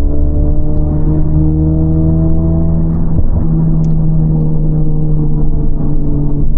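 Honda Civic FL5 Type R's turbocharged 2.0-litre four-cylinder, heard from inside the cabin through an HKS Legamax exhaust with an aftermarket downpipe, pulling under load with its pitch rising slowly. It breaks off for a moment about three seconds in, then carries on at a steady pitch.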